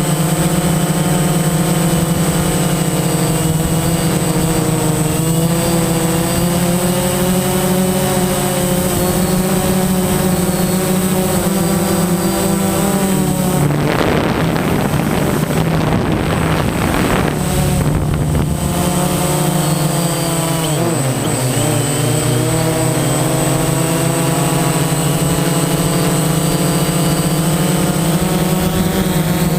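DJI Phantom quadcopter's motors and 9-inch propellers buzzing steadily in flight, the pitch shifting a little with throttle. From about 14 to 18 seconds in, a rough rushing noise covers the buzz. Around 21 seconds the pitch dips briefly, then climbs back.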